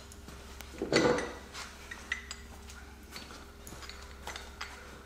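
Metal hand tools and parts clinking and knocking against each other: one louder clatter about a second in, then several lighter clicks.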